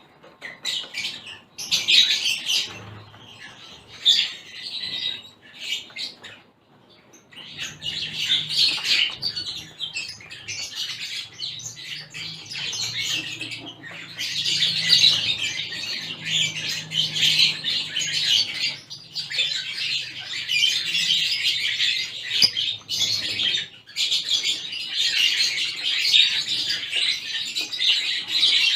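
A mixed flock of small caged finches, zebra finches among them, chirping and calling over one another. The calls come in scattered bursts at first, then become a near-continuous chatter from about seven seconds in.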